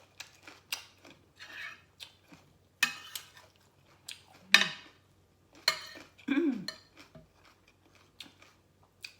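Eating utensils clinking and scraping against a plate in a handful of separate sharp strikes.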